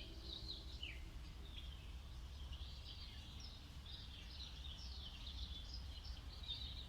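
Small songbirds chirping and twittering in quick, overlapping calls, with a short falling note about a second in, over a steady low background rumble.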